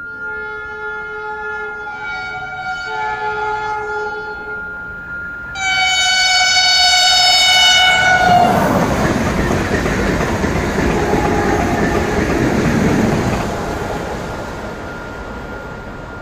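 A Renfe Class 130 passenger train sounds its horn on approach, changing note partway. About five seconds in it gives a much louder long blast whose pitch drops as the train reaches the crossing. The train then rushes past at speed and fades away, while the crossing's warning bell keeps ringing a steady high note.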